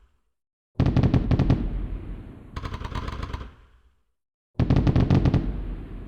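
Fireworks going off in rapid strings of bangs, several per second. A loud string starts about a second in and a quieter one follows, then the pattern repeats from just past halfway, with dead silence between.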